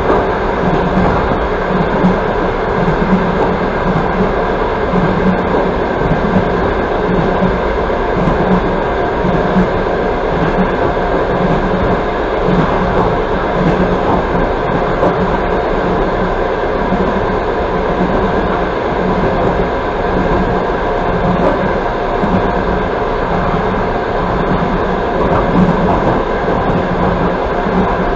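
Passenger train coach running at speed on the rails: a loud, steady rumble of wheels and running gear, with a faint pulsing throb.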